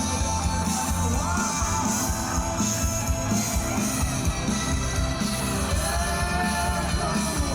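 Rock band playing live: a full band with guitar, in a passage without clear lyrics.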